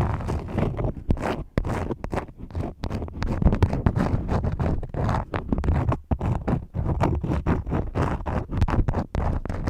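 Wax crayon scribbling close to the microphone: rapid, scratchy back-and-forth strokes, several a second, with a few brief pauses.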